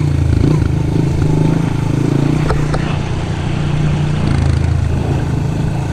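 Pit bike engine running at steady revs while being ridden, with a couple of light clicks about two and a half seconds in.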